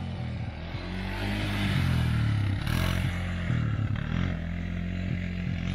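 Single-cylinder Yamaha ATV engine revving hard in first gear, its pitch rising and falling, with a short scraping burst of noise about three seconds in. The owner suspects it is running on bad gas or a dirty carburetor.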